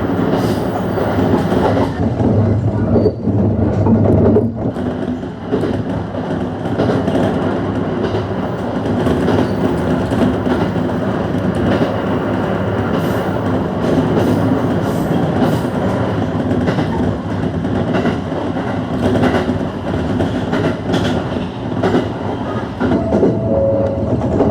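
ET127 series electric train running on the line, a steady rumble of wheels on rail with occasional faint clicks. A brief high tone sounds near the end.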